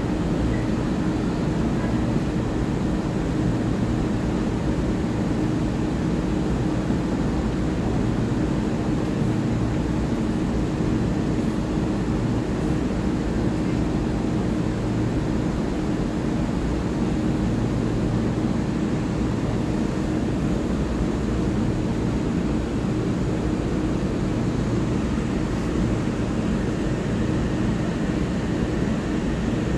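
Steady hum of a Taiwan Railway EMU3000 electric multiple unit standing at the platform, its on-board equipment and air conditioning running, with a constant low tone and rumble underneath.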